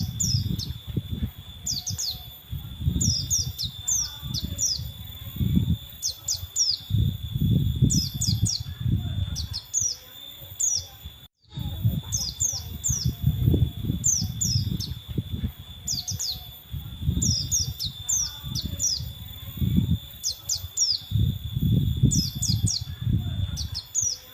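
A male white-eye (pleci) singing persistently, in quick runs of short, sharply falling high chirps repeated over and over. Under it runs a steady thin high whine and a low rumbling noise that swells and fades every second or two, with a brief dropout near the middle.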